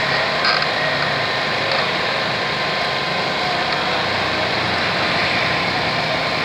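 Steady background noise of running vehicle engines, with no distinct knocks or tool strikes standing out.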